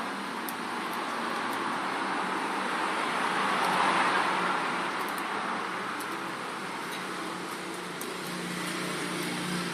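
Road traffic: a vehicle passing, its noise swelling to a peak about four seconds in and fading again, over a steady low hum.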